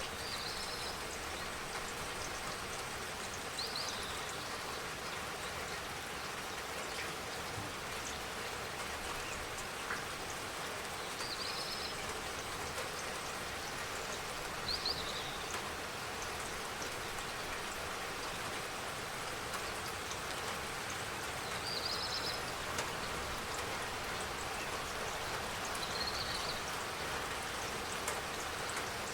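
Steady spring rain falling, with drops pattering on surfaces. A bird gives short high chirps about six times, spread out through the rain.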